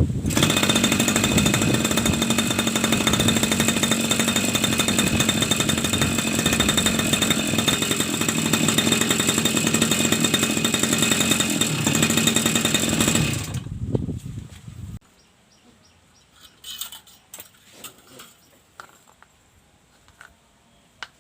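Grass cutter's small petrol engine running steadily at high speed, then shut off about 13 seconds in and winding down over a second or so. After that, only faint scattered clicks and rustles.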